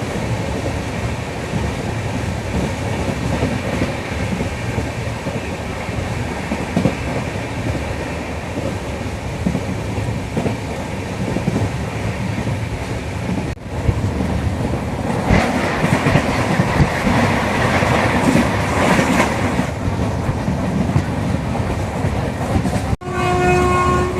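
Passenger express train running at speed: a steady rumble with the clickety-clack of wheels over rail joints, louder and rushing for a few seconds past the middle. Near the end a train horn sounds, one steady chord held.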